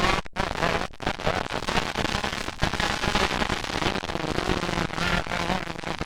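Motocross bike engines on the track, running with a dense crackle and a pitch that rises and falls as the riders throttle on and off. The sound cuts out briefly twice near the start.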